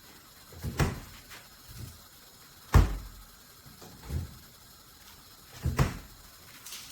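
A series of knocks and clunks from a fridge door and its plastic door shelves being handled, about five of them spread over several seconds; the sharpest and loudest comes about three seconds in.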